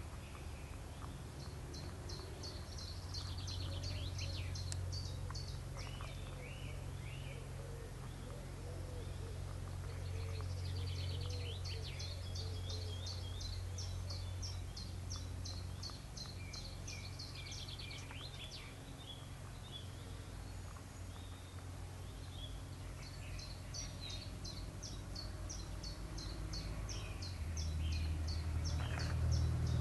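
Songbirds singing in three spells of rapid, repeated high notes, over a steady low rumble of background noise that grows louder near the end.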